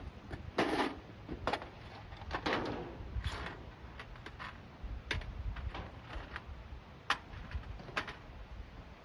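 Irregular knocks and clicks, with a few longer scraping bursts in the first few seconds, then single sharp clicks about a second apart.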